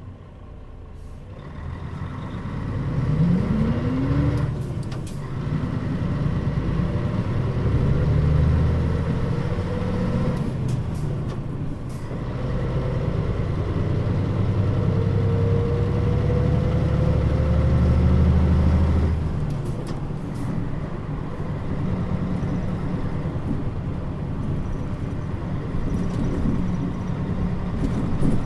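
Mitsubishi Fuso Aero Star bus engine pulling away from a stop and accelerating through the gears. The revs rise in each gear, with brief breaks and clicks at the gear changes about 5, 11 and 19 seconds in, and the engine settles into a steady cruising drone after that.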